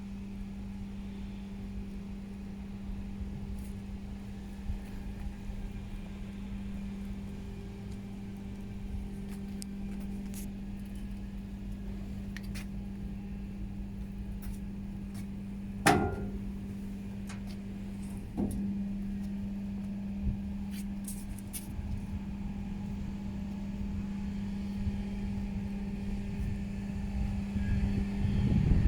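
Truck engine idling with a steady hum, a sharp metallic clank about sixteen seconds in and a smaller knock a couple of seconds later, growing louder near the end.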